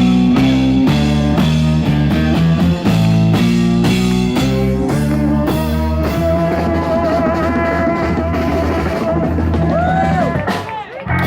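Live blues-rock band playing: drum kit, bass and electric guitar pounding out a rhythmic riff, then the guitar holds a long wavering note with vibrato for several seconds. The sound dips briefly near the end.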